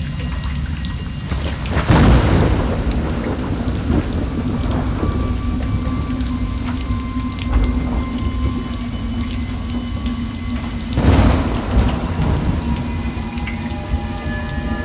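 Steady heavy rain sound effect with two rolling thunderclaps, one about two seconds in and one about eleven seconds in, over a few low held tones that thicken near the end.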